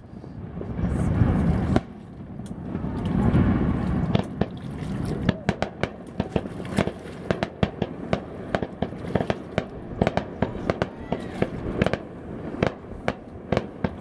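Distant aerial fireworks: two deep booms that rumble on for a second or more each, then from about five seconds in a long run of rapid sharp pops and crackles from crackling shell effects.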